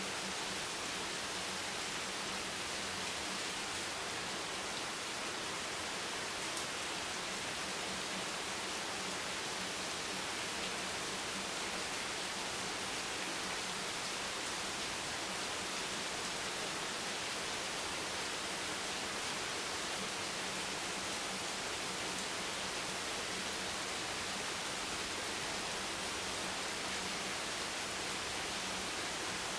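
Steady rain, an even unbroken hiss with no separate drops or thunder standing out.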